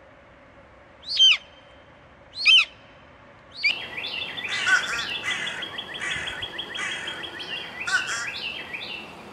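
A hawk gives two short, shrill calls falling in pitch, about a second and a half apart. Then, a little under four seconds in, a dense chatter of many overlapping bird calls starts and runs until near the end.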